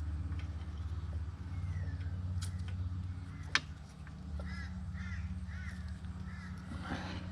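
A crow cawing four times in quick succession about halfway through, over a steady low hum. A single sharp click comes just before the caws.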